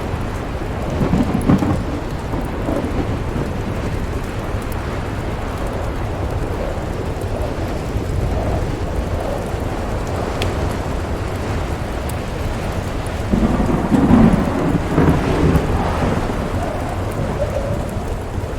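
Storm ambience: a steady low rushing of wind with patter of precipitation, and rolls of thunder, a short one near the start and a longer, louder one about two-thirds of the way through.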